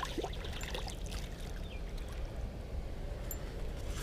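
River water trickling and splashing over a steady low rumble, with a few faint scattered ticks.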